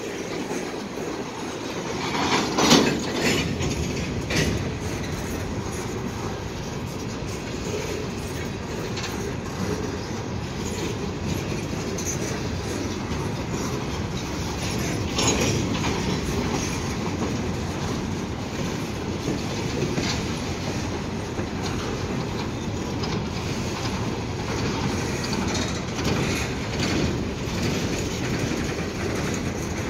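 Empty steel coal hopper cars rolling past, a steady rumble of wheels on the rails. Sharp knocks and bangs cut through it, the loudest about three seconds in and another about fifteen seconds in.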